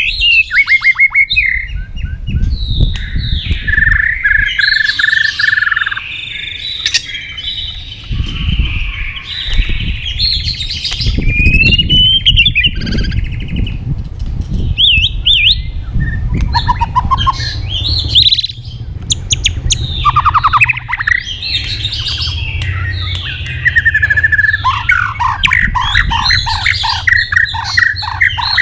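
White-rumped shama singing a long, nearly unbroken song of varied phrases: fast trills, rising and falling whistles and quick repeated notes, over a steady low rumble.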